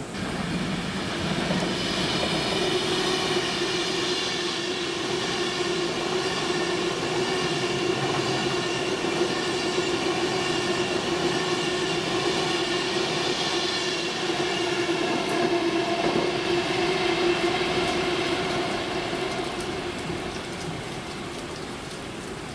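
Train moving along the tracks. Its sound rises sharply at the start, holds as a steady whine of several tones, and fades away near the end.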